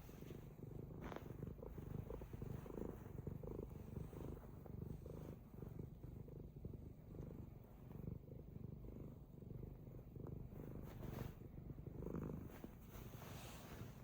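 Domestic cat purring close to the microphone, a steady low pulsing rumble.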